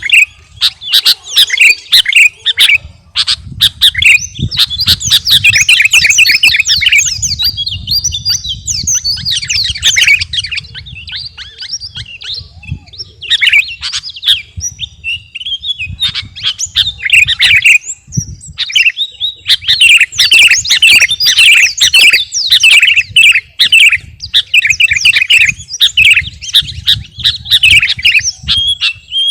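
Sooty-headed bulbul (kutilang) in full song, pouring out a rapid stream of bright chirps and warbled phrases, with a short lull about twelve seconds in and another near eighteen seconds. A low rumble runs under the song.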